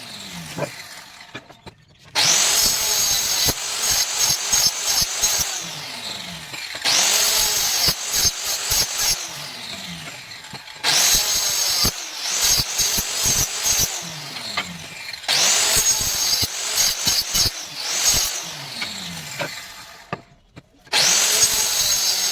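Handheld power tool working wood in repeated bursts, switched on about every four to five seconds. Each burst starts suddenly and loud, then fades with a falling pitch as the tool winds down.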